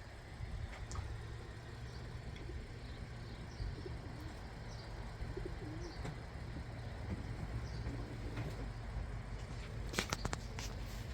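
Birds calling over a steady low outdoor rumble, with a quick run of sharp clicks or taps about ten seconds in.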